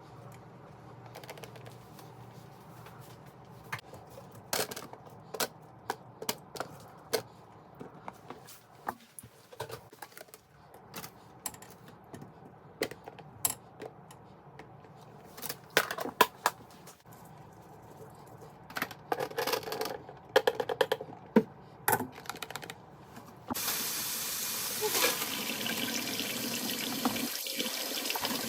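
Scattered light clicks and knocks of things being handled, then near the end a kitchen faucet is turned on and water runs steadily into the sink.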